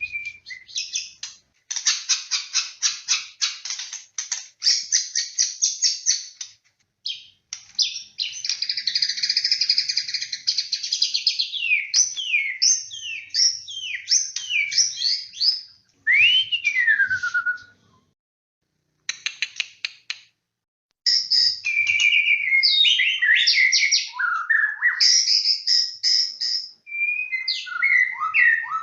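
White-rumped shama singing a loud, varied song in phrases: fast runs of repeated notes, a dense chattering phrase, and sweeping whistles that fall in pitch, with a couple of brief pauses partway through.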